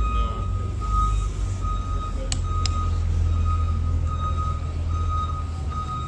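A vehicle's backup alarm beeping steadily, a little over one beep a second, over a heavy low engine rumble. Two sharp clicks come a little over two seconds in.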